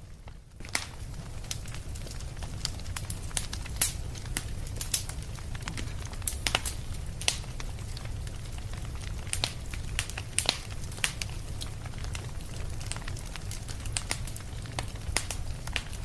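Fire in a fireplace crackling, with sharp irregular pops over a steady low rumble.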